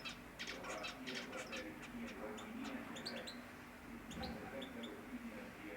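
Canaries chirping in many short, high calls and twitters.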